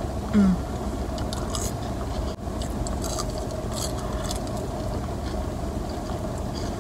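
Crunchy crinkle-cut french fries being chewed, short crackly bites over the steady low hum of the car running. A brief vocal sound comes just after the start.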